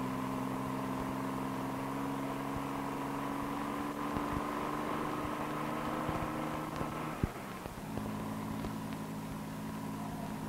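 Corvair Monza Spyder's turbocharged air-cooled flat-six engine running steadily, its pitch rising slowly. About seven seconds in it breaks off with a click and comes back a little lower.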